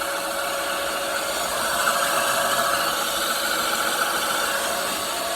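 Dirt bike's motor running steadily at full power with the bike up on a stand, its rear wheel spinning free off the ground; a steady whine with no change in pitch.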